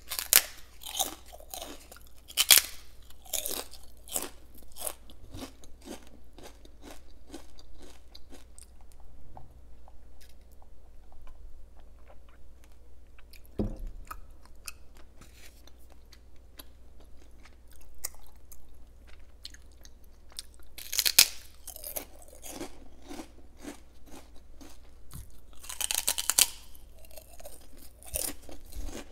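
Close crunching and chewing of crisp homemade prawn crackers. Several loud, sharp bites stand out near the start, about two-thirds of the way through and again near the end, with quieter chewing in between.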